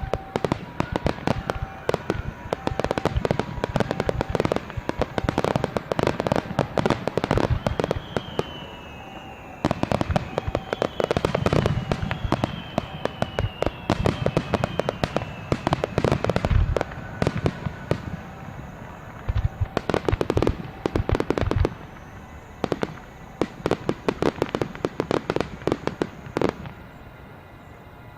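Fireworks display: rapid, dense bangs and crackling from bursting aerial shells. Several descending whistles come around the middle, and the volleys die down near the end.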